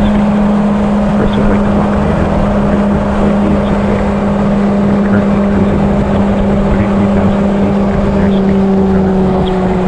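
Honda CB750's inline-four engine running steadily at highway cruising speed, its pitch easing slightly lower near the end, under heavy wind noise on the helmet or handlebar camera.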